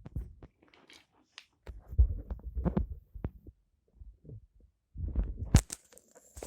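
Irregular low thumps and knocks with a few sharp clicks, as toy trains and pieces are moved by hand on a hard surface. The loudest knocks fall about two seconds in, just under three seconds in, and near the end.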